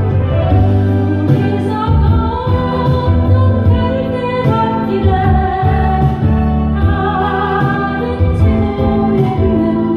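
A singer singing a slow Korean ballad with held, gliding notes over instrumental accompaniment with sustained bass notes.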